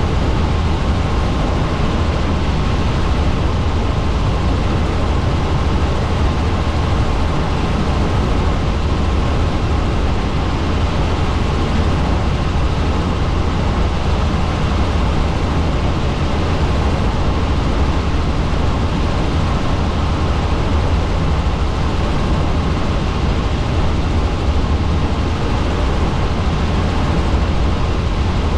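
Helicopter in flight, heard on board: a steady, loud drone of engine and rotors with a deep low rumble under a rushing noise.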